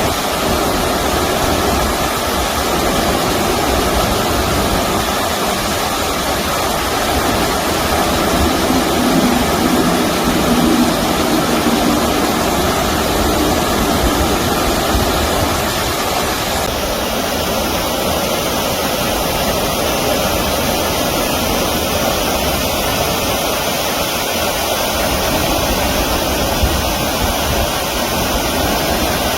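Steady rush of flowing stream water, loud and unbroken.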